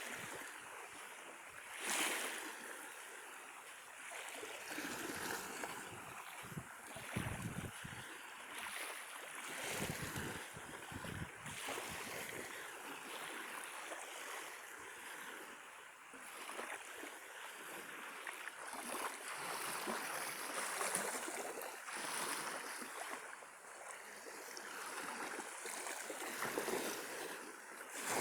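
Small Azov Sea waves washing onto the shore, a hiss that swells and fades every few seconds. A few low gusts of wind buffet the microphone.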